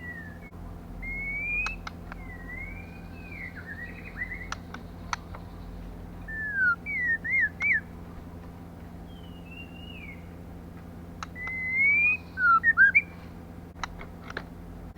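Female white-rumped shama calling: short sliding whistles, rising and falling, in several quick groups, with a few sharp clicks between them. A steady low hum runs underneath.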